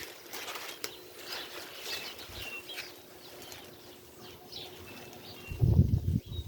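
Small birds chirping in short, repeated high calls. Near the end comes a louder burst of low thumps.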